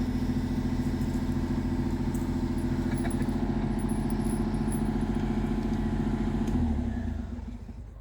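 A small engine idling steadily, then shut off about seven seconds in, its note dropping as it runs down to a stop.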